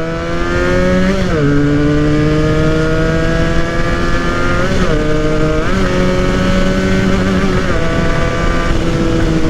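Modified Benelli motorcycle accelerating hard on the road, its engine note climbing steadily in pitch. The pitch drops briefly at the gear changes, once about a second in and twice around five to six seconds.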